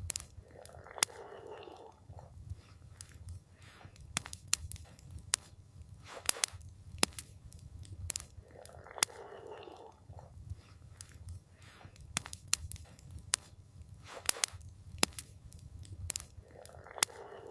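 Campfire crackling, with irregular sharp pops and snaps over a steady low rumble. A soft hissing swell comes back about every eight seconds.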